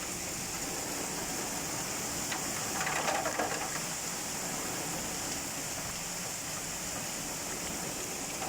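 Heavy downpour with wind: a steady hiss of rain, with a brief louder noise about three seconds in.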